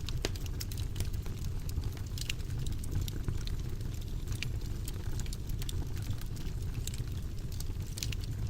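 Wood fire in a fireplace crackling, with many irregular sharp pops and snaps over a low steady rumble.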